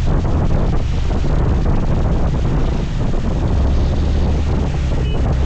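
Wind buffeting the microphone while riding a scooter, over a steady low rumble of engine and road noise. A brief high beep sounds about five seconds in.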